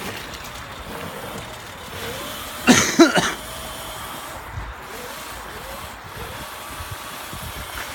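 Quad bike engine running steadily, with one short, loud cough-like vocal sound about three seconds in.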